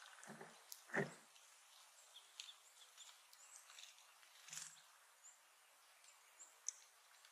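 Small birds at a feeder: faint high chirps and light ticks, with a few soft knocks, the loudest about a second in.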